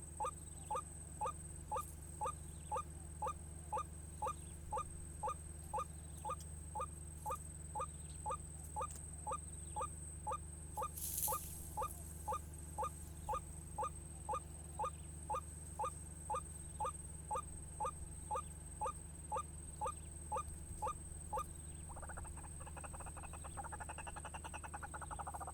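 White-breasted waterhen calls: a short rising croaking note repeated very evenly, about one and a third times a second, as used to lure the bird. About 22 seconds in, the notes stop and a rapid rasping chatter takes over.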